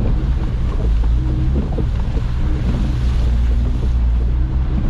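Off-road vehicle driving, its engine running under a heavy, steady rumble of wind buffeting the microphone.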